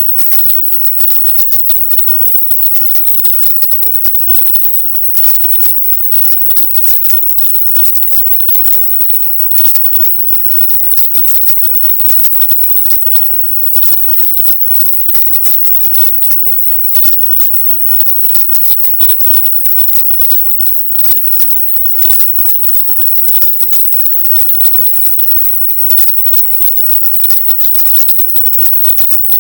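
Loud, steady high-pitched hiss with a crackly, scratchy texture from many brief dropouts: a 'silent subliminal' track, recorded affirmations shifted up to the top of the hearing range so that no words can be made out.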